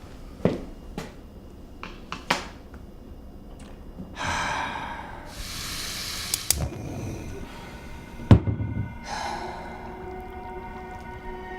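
A few sharp knocks, then a rushing hiss that swells and fades, then a heavy thud; a soft sustained music chord comes in near the end.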